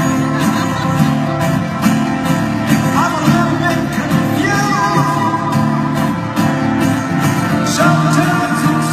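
Live rock band playing: a steady, repeating low chord pattern with gliding lead lines above it that slide upward twice.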